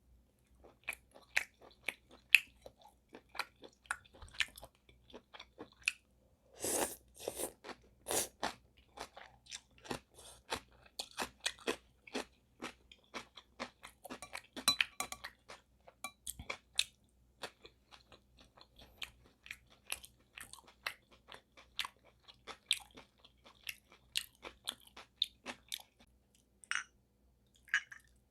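Close-up chewing and mouth sounds of someone eating spicy sea snail bibim noodles: an irregular run of small wet clicks and crunches, with a louder cluster about seven seconds in.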